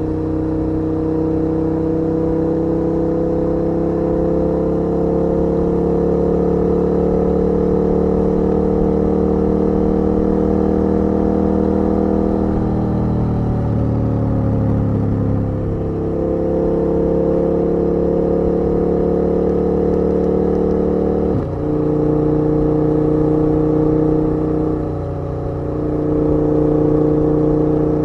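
KTM 1290 R's V-twin engine running under way, its pitch climbing slowly. Midway the revs dip and recover, about three quarters of the way through the pitch drops suddenly, and a brief lull follows before it pulls again.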